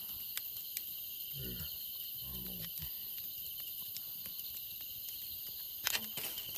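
Steady chorus of insects trilling in several high bands, with a short low murmur of a man's voice twice in the first half, a few faint clicks and a sharper snap about six seconds in.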